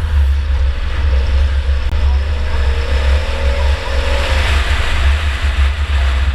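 2004 Chevy Impala enduro car running on the track, heard from inside the car: a steady low rumble of engine and road noise, with a faint rising whine about halfway through.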